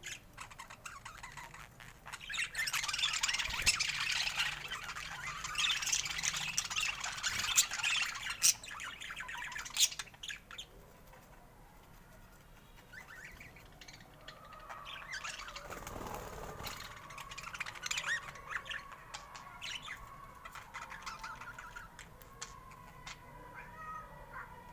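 Budgerigars chattering and warbling, with a dense burst of fast chirps and clicks for the first several seconds, then quieter, with a few whistled notes and short sliding calls.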